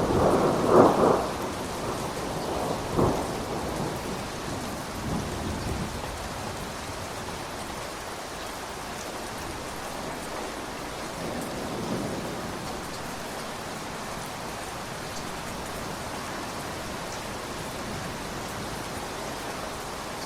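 Thunderstorm: steady rain with a loud thunder rumble in the first couple of seconds, then a few fainter rumbles that die away, leaving the rain hiss alone.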